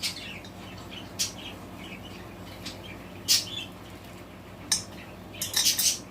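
Pet budgerigars chirping in short, scattered calls, with a few sharp, louder clicks among them, the loudest about three seconds in and a cluster near the end, over a faint steady low hum.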